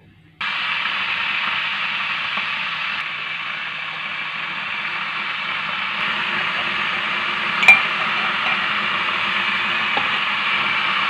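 Heavy rain falling, a steady dense hiss that starts abruptly, with one sharp click about eight seconds in.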